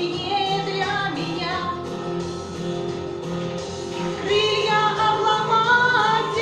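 A song sung live with instrumental accompaniment, the voice holding long notes that swell louder about four seconds in.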